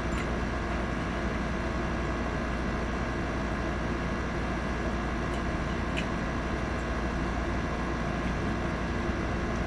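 A steady mechanical hum with several constant tones, with a couple of faint light clicks.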